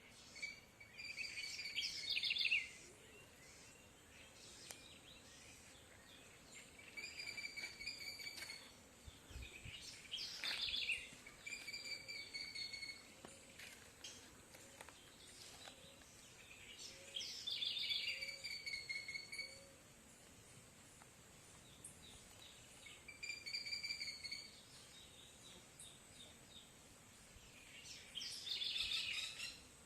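A bird calling again and again, a phrase of about two seconds every five or six seconds, over a faint steady background hiss.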